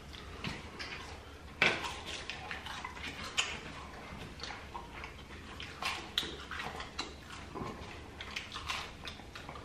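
Close-up eating sounds of people chewing chicken nuggets: wet mouth clicks and lip-smacking, with two sharper clicks, one nearly two seconds in and another about three and a half seconds in.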